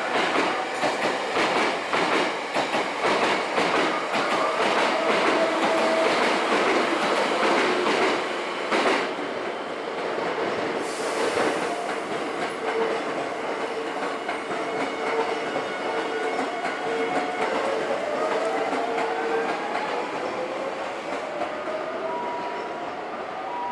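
Hankyu electric commuter train running on the station tracks: a rapid clatter of wheels over rail joints for the first several seconds, then steadier running with the electric motors' whine, rising in pitch in the later part, as the sound slowly fades.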